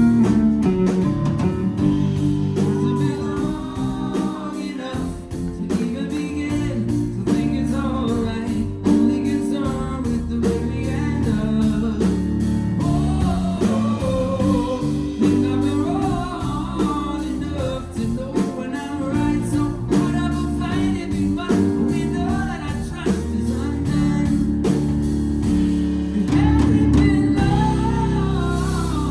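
Live band music: a singing voice over guitar and a steady bass line.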